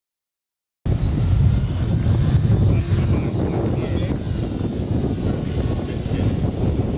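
Electric radio-controlled model warbird in flight: a thin, steady, high motor-and-propeller whine over heavy wind rumble. It starts abruptly about a second in.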